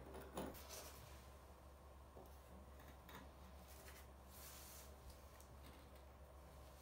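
Near silence: faint room hum with a few soft scrapes and light taps, and a brief rustle about four seconds in.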